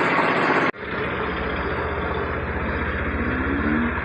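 Italika WS150 scooter's single-cylinder four-stroke engine idling steadily after its starter bendix has been replaced. There is an abrupt cut under a second in.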